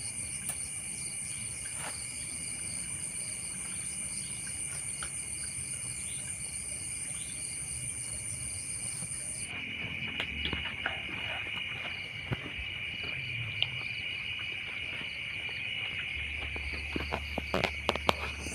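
Steady high-pitched chorus of crickets and other insects. About halfway through, the highest-pitched part of the chorus cuts off suddenly while a lower shrill band carries on. A few sharp clicks come near the end.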